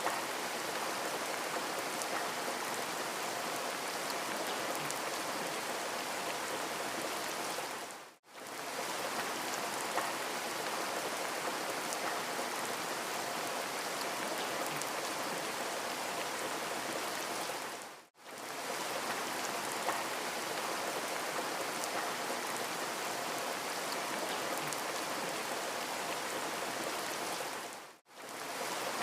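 Steady rain hiss from a looped rain-sound recording, briefly fading out and back in about every ten seconds at the loop joins, three times.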